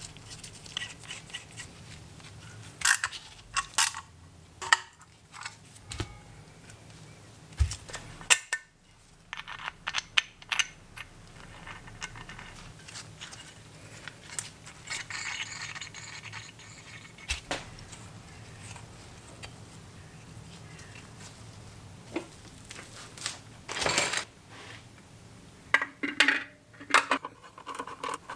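Small metal parts clinking, knocking and scraping at irregular intervals, with a brief scrape about halfway through and a busier cluster of knocks near the end.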